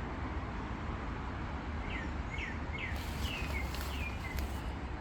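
Outdoor rural ambience with a steady low rumble, and a small bird calling a quick run of short, falling chirps from about two seconds in, with a few faint clicks among them.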